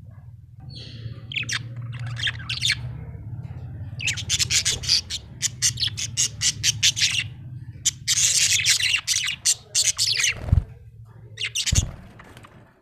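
Small parrot chirping and squawking in rapid strings of harsh chirps, loudest in a long burst about eight seconds in. A steady low hum runs underneath, and two low thumps come near the end.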